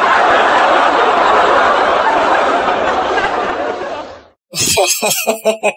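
Many people laughing together in a dense, continuous wave that lasts about four seconds and then cuts off.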